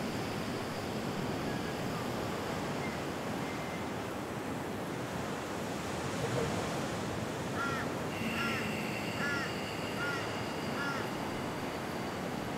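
Steady rushing outdoor noise, with a bird calling a quick series of five or six short, arched chirps about two-thirds of the way through.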